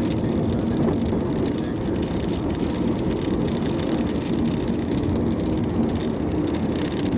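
Steady engine drone over an even rushing noise from a police vehicle during a pursuit, with no change in pitch.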